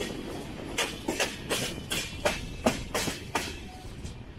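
Passenger train running, its wheels clacking over rail joints about two or three times a second over a steady low rumble.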